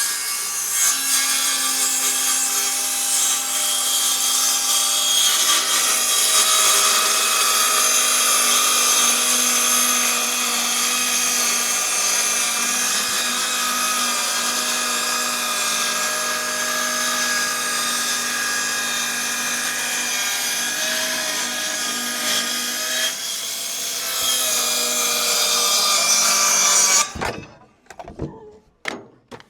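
Electric power tool cutting wood, running steadily under load for most of the time, then switching off near the end, followed by a few brief clatters.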